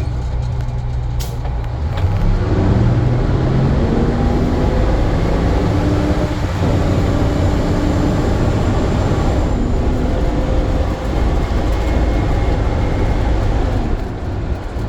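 Sutphen fire engine's diesel engine running under way, a deep steady drone whose pitch climbs several times as the truck accelerates.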